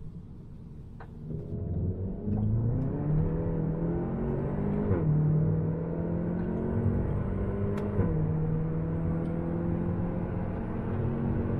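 Volkswagen Golf GTI TCR's turbocharged 2.0-litre four-cylinder, heard from inside the cabin, accelerating hard with its pitch climbing. It makes two quick upshifts, second to third about five seconds in and third to fourth about eight seconds in, and the pitch drops sharply at each.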